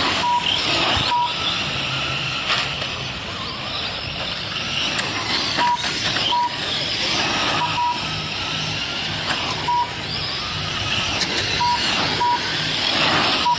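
Several radio-controlled race cars running flat out, their high whine swelling and fading as they pass and turn. Short high beeps sound now and then.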